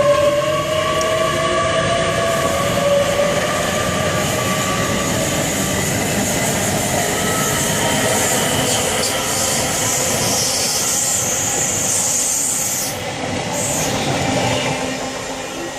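Passenger train moving through the station. A slowly rising whine comes from its drive in the first few seconds, over continuous wheel and rail noise. A high hiss runs for a few seconds past the middle, and the sound fades near the end.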